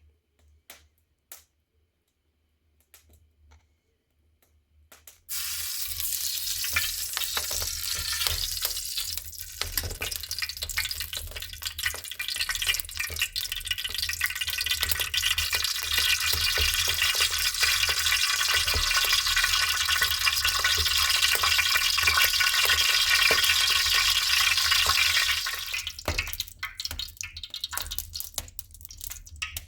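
Food sizzling in hot oil in a cooking pot. After a few seconds of near quiet with faint clicks, the sizzle starts suddenly and runs steadily for about twenty seconds, then cuts off sharply near the end, leaving scattered crackles.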